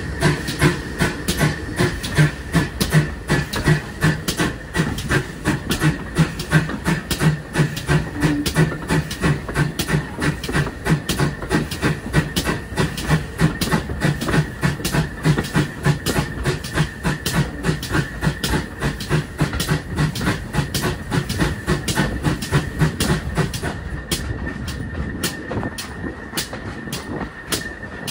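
Pannier tank steam train running, with a fast, even rhythm of beats over a steady high tone. The beats fade somewhat near the end.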